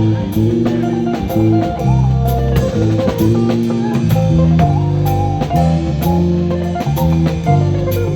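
A live band playing an instrumental passage: guitar and bass chords over a drum kit with a steady beat.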